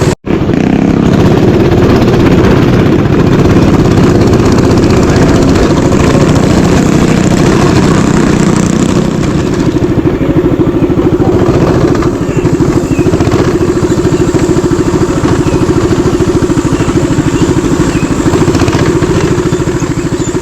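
Mini bike engine running at high, fairly steady revs throughout, with a momentary dropout to silence just after the start.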